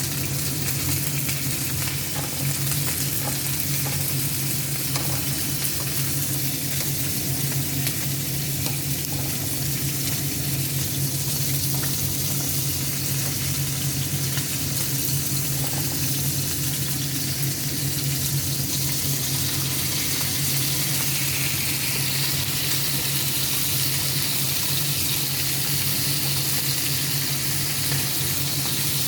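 Marinated chicken pieces frying in hot oil in a pan, a steady sizzle, with a constant low hum underneath.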